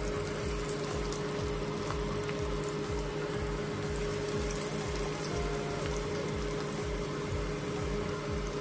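Breaded chicken tenders sizzling steadily as they shallow-fry in hot oil in a pan, over background music with a repeating low beat.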